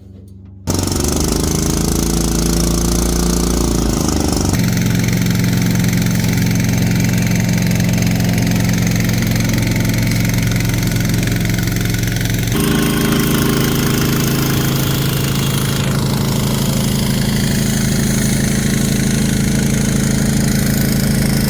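16 hp Briggs & Stratton engine of a Hale fire pump starting abruptly and running steadily, its note shifting about four seconds in and again around twelve seconds in.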